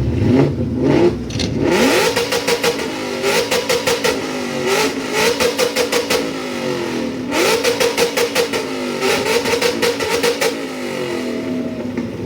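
Ford Mustang engine and exhaust revved hard three times, each time climbing quickly and held at the top with a rapid stuttering pulse before dropping back.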